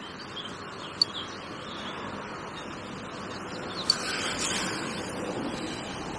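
Small birds chirping over a steady background hush, with two sharp clicks, about one second in and about four seconds in.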